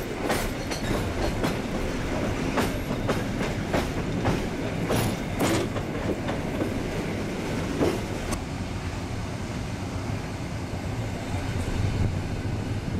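Passenger train running, heard from a coach window: a steady rumble with irregular clicks from the wheels crossing rail joints and points. The clicks mostly stop about eight seconds in, leaving the rumble.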